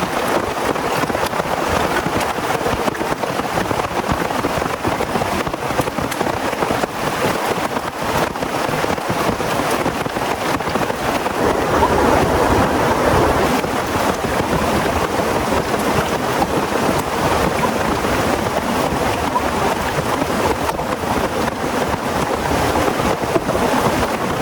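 Heavy rain falling steadily, a dense hiss of many small drop hits, swelling a little about halfway through.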